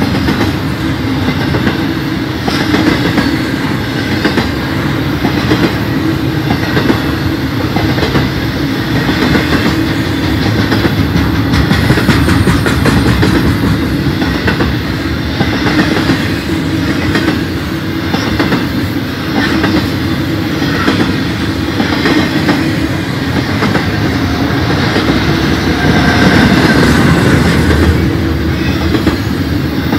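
Loaded intermodal freight train rolling steadily past at close range: a continuous rumble of freight car wheels, with the clickety-clack of wheels over rail joints.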